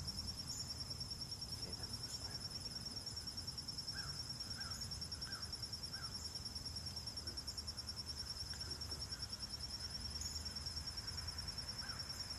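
A continuous high, rapidly pulsing insect trill, with a few short bird chirps, several about four to six seconds in and more near the end, over a low outdoor background rumble.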